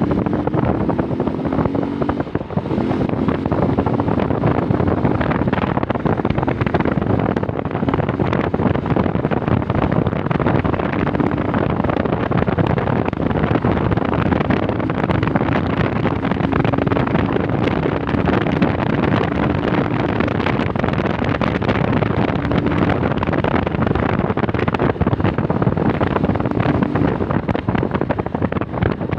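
Heavy wind rush on the microphone of a moving Rusi Nova SS 150 motorcycle, with the engine's hum coming and going faintly underneath.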